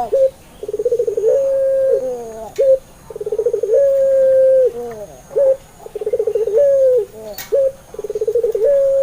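Puter pelung dove, a long-voiced variety of the domestic ringneck dove, cooing. Each phrase is a fast stuttering run followed by one long held note that drops at the end, and the phrase repeats about every two and a half seconds.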